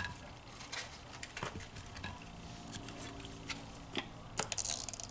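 Eating at the table: small clicks, taps and rustles of handling fries and ketchup in a takeout container, with mouth noises, and a brief louder rustle near the end.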